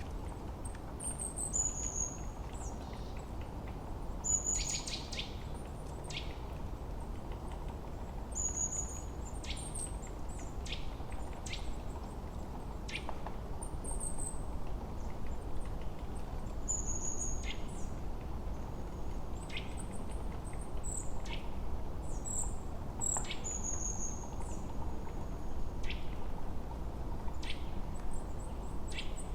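Small forest birds chirping and calling: short high, falling whistled notes and quick sharp chips repeating every second or two, over a steady low rushing background.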